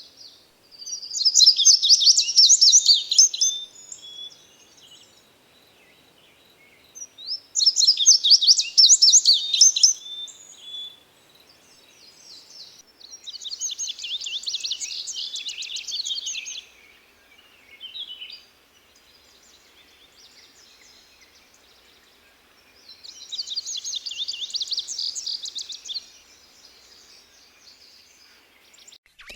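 A songbird singing four bursts of rapid, high-pitched trilled song, each about three seconds long, separated by pauses of a few seconds.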